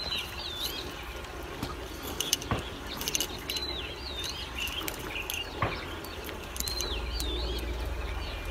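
A bird repeats a short warbling whistle three times, over scattered light clicks and a low rumble that grows louder near the end.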